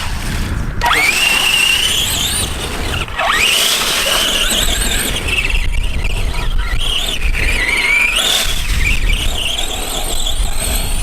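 ARRMA Granite 4x4 Mega RC monster truck's brushed electric motor and geartrain whining as it drives. The pitch rises and falls repeatedly with the throttle, over a low rumble.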